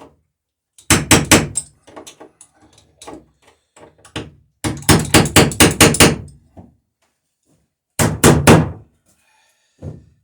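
Quick runs of hammer blows, riveting nails and burrs through the planking of a wooden boat: about four strikes, then a longer run of about eight, then three.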